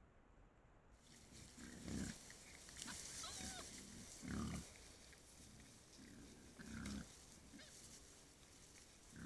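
Wild boar grunting low, one grunt every two to three seconds, with a few short, higher squeaks in between.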